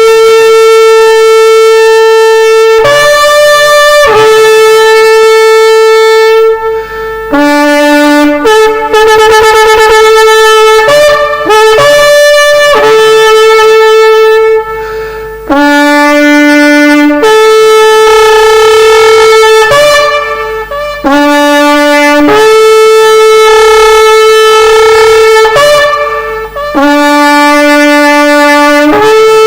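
Shofar blown loudly in long blasts that leap between a low note and a higher one, with a run of short, quick broken notes about a third of the way in.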